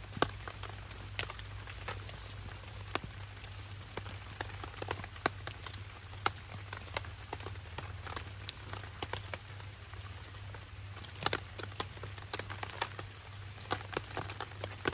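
Rain falling on a DD tarp: an even hiss of rain with many irregular sharp drop taps on the fabric.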